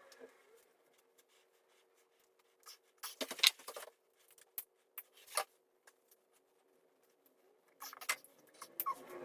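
Scattered small clicks and scrapes of hands working with tools or material, with a louder cluster about three seconds in and another near the end, over a faint steady hum.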